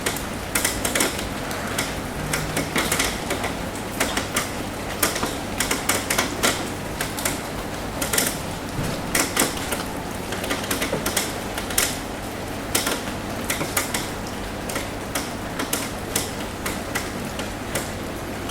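Raindrops tapping on a roof: a steady hiss of rain with many irregular, sharp ticks and taps from individual drops striking the surface.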